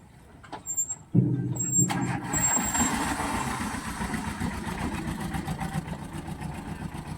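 A heavy truck engine comes in suddenly about a second in and keeps running loudly. A rushing hiss joins it shortly after.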